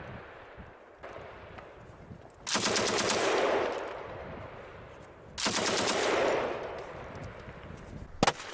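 M240 machine gun firing two bursts of about a second each, a few seconds apart. Each burst rolls off in a long echo. A few more shots, then another burst, come near the end.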